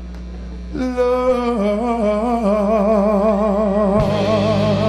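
Male soul singer holding one long sung note with a wide vibrato, the drawn-out last word of the song's closing line, over a sustained chord from the band; a new low chord comes in about four seconds in.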